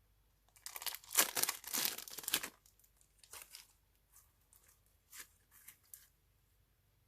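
Crinkly material being torn and crumpled: a dense crackling burst lasting about two seconds, then scattered crackles and clicks.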